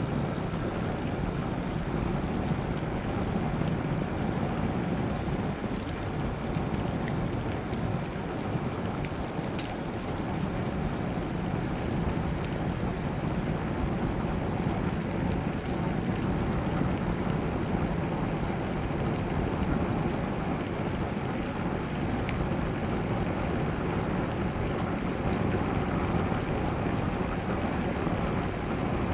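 Steady wind rush and rolling noise from riding an e-bike, with no breaks or sudden changes.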